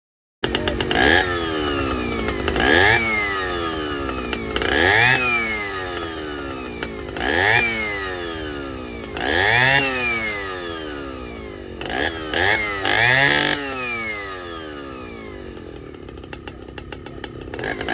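A vintage two-stroke chainsaw engine revving repeatedly, its pitch climbing and falling back about every two seconds. It starts abruptly about half a second in and eases down to a lower, steadier note near the end.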